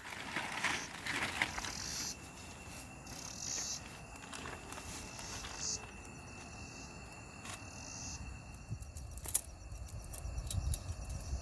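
Outdoor ambience with insects buzzing and chirping in high patches that come and go over a steady thin high tone, scattered sharp clicks, and low wind rumble on the microphone growing near the end.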